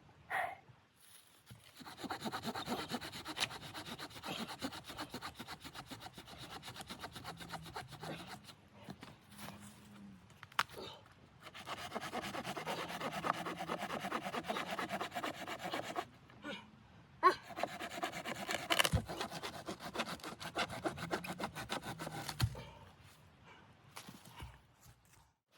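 Wood being cut with a hand saw in three long bouts of rapid rasping strokes, with short pauses between them.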